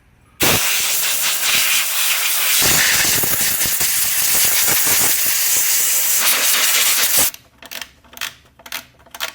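Pressurised spray hissing loudly for about seven seconds, then five or six short bursts, while dirt is blasted off a lawn mower's carburetor area.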